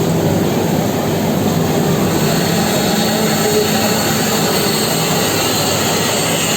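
Nilgiri Mountain Railway steam locomotive giving off a steady, loud rushing noise with a low hum underneath, with no chuffing beat.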